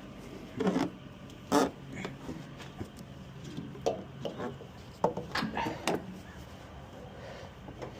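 A series of short knocks and clicks from hand work on a truck's air hose and electrical connections, over a steady low hum.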